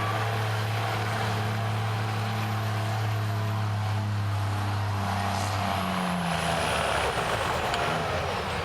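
Stock diesel pickup engine running hard under load, a steady deep drone. About six seconds in the engine note falls and fades, leaving a broad rushing noise.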